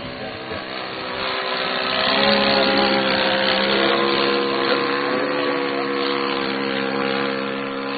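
Engine and propeller of a large radio-controlled model airplane running steadily in flight, growing louder about two seconds in.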